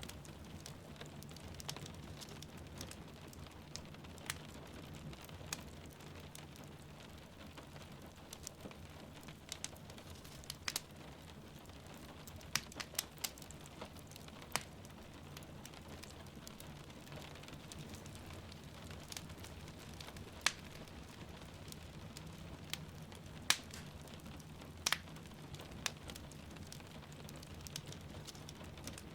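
Wood fire crackling, with sharp irregular pops and snaps, over a steady hiss of falling rain.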